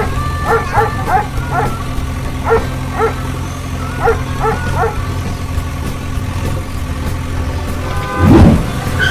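A dog yapping in short, quick barks, about a dozen in the first five seconds, over a steady low engine-like drone. A loud whooshing sweep comes about eight seconds in.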